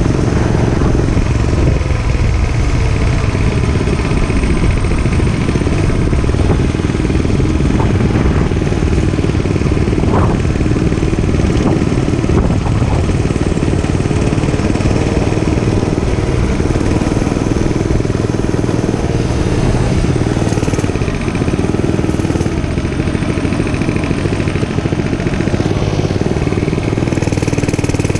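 Gas dirt bike engine running steadily while riding, with no letup.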